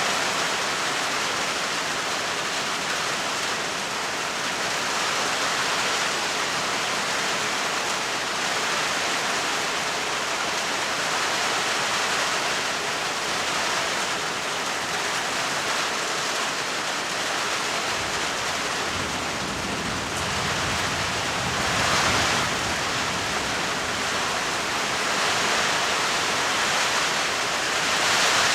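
Steady heavy rainfall. A low rumble of thunder swells and fades about two-thirds of the way through.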